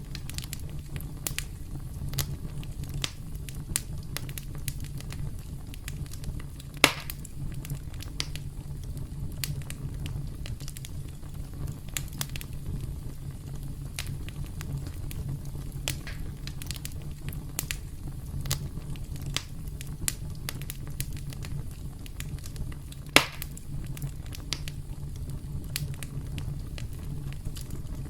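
Campfire crackling: a steady low rumble with frequent small pops and snaps, and two louder sharp pops, about seven seconds in and again about twenty-three seconds in.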